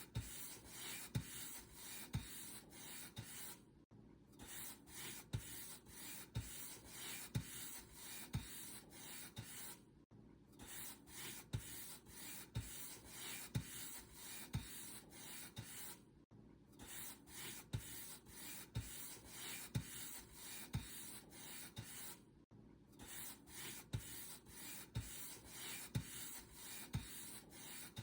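Paint brush bristles being stroked back and forth across a surface in brisk, evenly spaced strokes, each with a soft knock. The strokes break off for a short pause about every six seconds.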